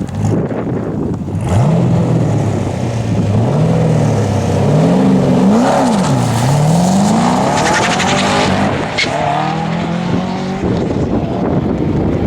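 Twin-turbocharged Chevrolet Corvette C6 V8 engine revving up and dropping back several times, its pitch climbing and falling in quick swings with one sharp rise and fall near the middle.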